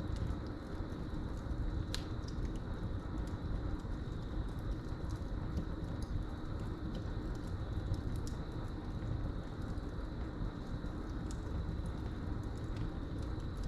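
Wood fire burning in a fireplace, crackling with scattered sharp pops over a low steady rumble, while crickets trill steadily on one high note in the background.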